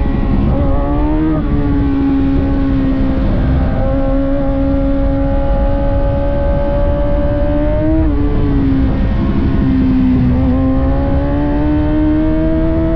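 600cc sport bike engine running hard at high revs on track. Its pitch wavers about a second in, jumps briefly near eight seconds, sinks, then climbs steadily towards the end, with a low rushing noise underneath.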